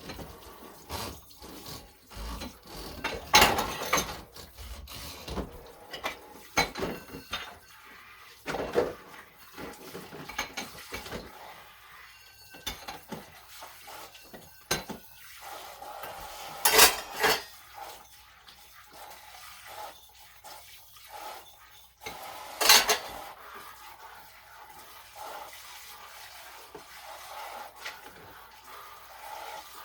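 Dishes and cutlery clattering and clinking while being hand-washed at a kitchen sink, with tap water running. The three sharpest clanks come about three and a half seconds in, around seventeen seconds and around twenty-three seconds.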